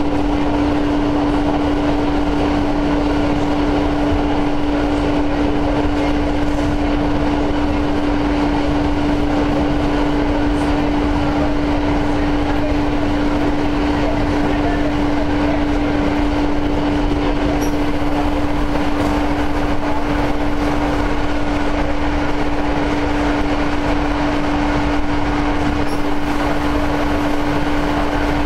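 Cabin noise of an electric commuter train running at a steady speed: an even rumble of wheels on rail with a constant mid-pitched hum over it.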